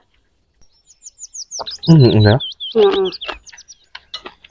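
Small bird chirping: a quick run of short, high, falling chirps, several a second, lasting a couple of seconds. A few light clicks follow near the end.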